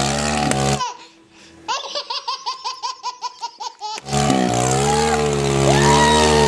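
A burst of rapid, high laughter, about five 'ha' pulses a second, cuts in about a second in and stops sharply after about three seconds. Before and after it, a tractor engine runs steadily.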